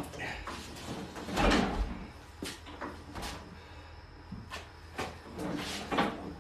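A series of scattered knocks, bumps and clicks from things being handled and moved about, with a heavier bump about one and a half seconds in.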